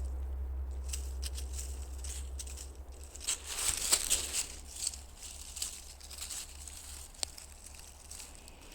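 Crunching and rustling, most likely footsteps in dry forest litter, thickest a few seconds in, with a single sharp click near the end. A low rumble underneath fades out about halfway.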